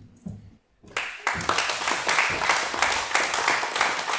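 Audience clapping and applauding, starting about a second in after a brief pause and keeping up steadily.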